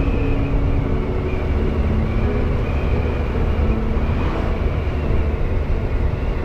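Motorcycle on the move: a steady rumble of wind and engine, with a faint engine drone wavering slightly in pitch.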